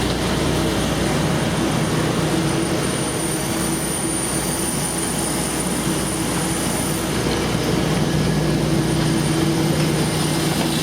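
Steady jet-engine hum and cabin noise inside a Boeing 787-8 Dreamliner taxiing after landing, with a constant low drone and a high whine.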